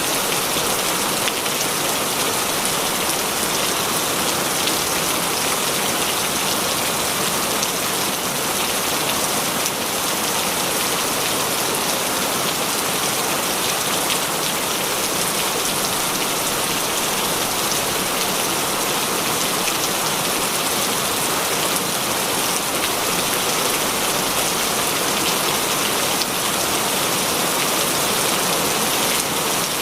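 Heavy rain falling steadily, an even hiss of many drops with no thunder or other events.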